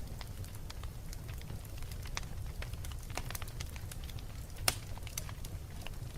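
Wood fire burning in a fireplace: irregular crackles and pops over a steady low rumble of the flames, with one loud pop a little before the end.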